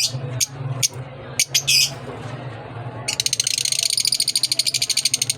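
Small cage birds chirping in short separate calls, then, about three seconds in, a fast even trill of roughly ten pulses a second that runs on to the end, over a steady low hum.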